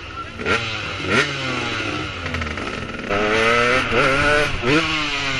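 KTM 250 SX two-stroke motocross bike engine revving in quick throttle blips, each a sharp rising and falling wail, then held at higher revs for about a second and a half from about three seconds in.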